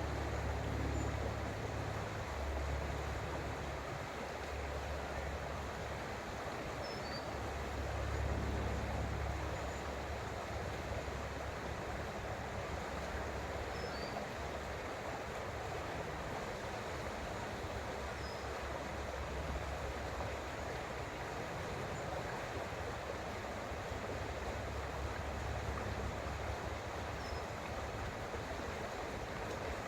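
Creek water flowing steadily with an even rushing sound. A low rumble swells and fades several times, and a few faint, short high notes sound here and there.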